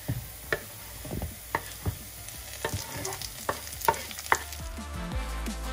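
Diced onion and carrot sizzling in oil in a nonstick frying pan, with irregular clicks and knocks as chopped bell pepper is scraped off a wooden cutting board into the pan.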